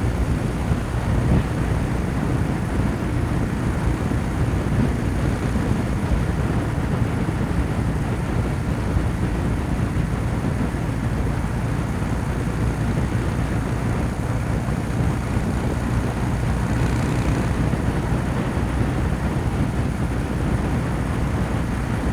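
Kawasaki W800's air-cooled parallel-twin engine running steadily at highway cruising speed.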